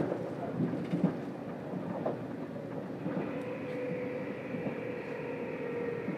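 Interior of a JR Kyushu 787 series electric train standing at a station platform: a low steady rumble with a few short knocks, and a steady hum that starts about three seconds in.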